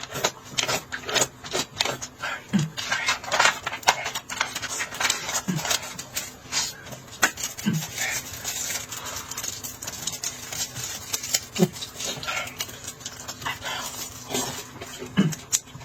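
Close-up mukbang eating sounds: wet slurping and smacking of lips, with clicks of utensils against a dish and a short low sound every few seconds.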